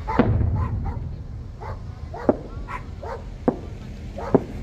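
Aerial fireworks going off, with a deep boom just after the start, and a dog barking over them in short, sharp barks about a second apart.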